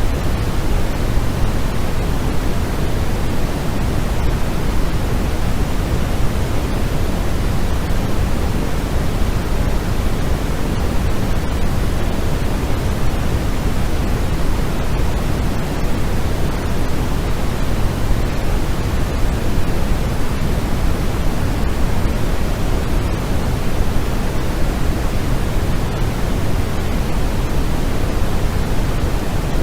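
Generated white noise played for sleep: a constant, unvarying hiss with a full low rumble, its weight tilted toward the low end rather than flat across the range.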